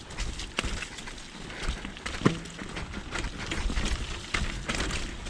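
Mountain bike riding over rough, bumpy trail: tyres rolling on dirt with repeated clacks and rattles from the bike, and a sharp knock about two seconds in. A low rumble runs underneath.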